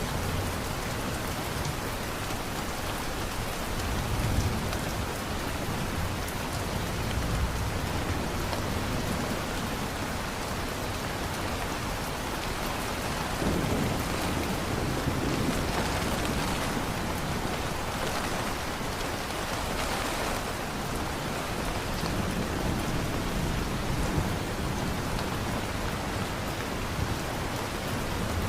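Steady heavy rain from a rainstorm, with low rolls of thunder swelling up several times, longest about halfway through.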